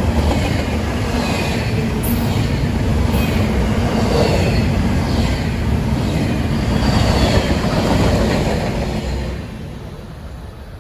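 Train passing on the rails: a loud steady rumble of wheels on track, with faint thin squealing tones from the wheels above it, dying away near the end as the train clears.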